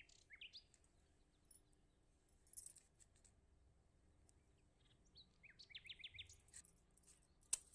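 Faint birds chirping: a few quick rising chirps near the start and a rapid run of short chirps around six seconds in. Light clicks of small objects being set down on stone, with one sharp click near the end, the loudest sound.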